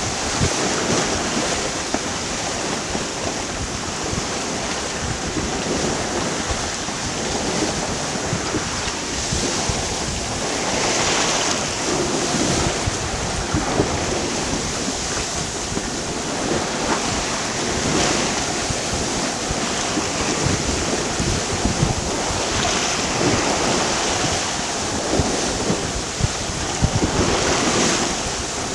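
Wind buffeting the microphone and waves rushing along the hull of a sailboat close hauled and beating into a rough chop, with the water surging up every few seconds as the bow meets the waves.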